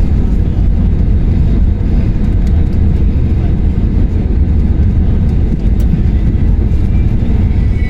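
Loud, steady low rumble of an airliner's engines and airflow heard from inside the passenger cabin.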